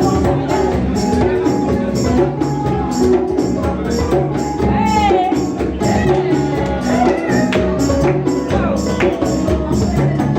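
Live band music with a fast, steady percussion beat and held bass notes, and a voice singing over it.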